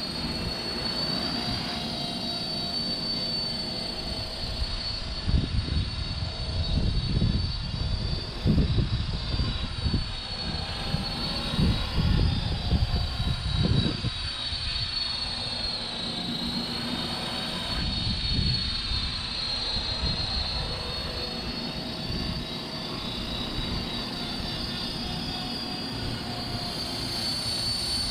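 450-size electric RC helicopter in flight, its motor and rotor giving a steady high whine that wavers slightly. Wind buffets the microphone in low gusts, heaviest from about five to fourteen seconds in.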